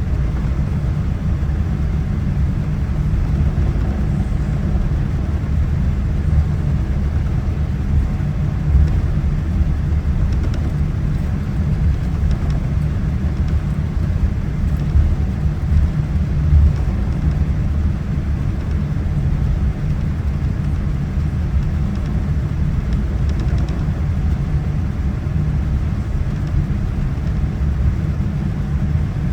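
Steady low rumble of a Boeing 787-9's cabin while the airliner is on the ground before takeoff, even throughout with no change in pitch.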